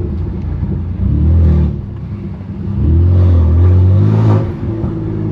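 Straight-piped twin-turbo S55 inline-six of a 2018 BMW M3 Competition pulling at low revs, with two bursts of throttle, about a second in and again from about three to four and a half seconds, easing off between.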